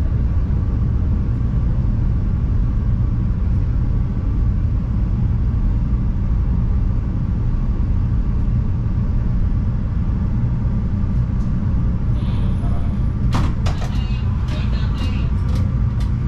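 CTA Yellow Line rapid-transit train running on the track, a steady low rumble of wheels and running gear, with a run of sharp clicks about three seconds before the end.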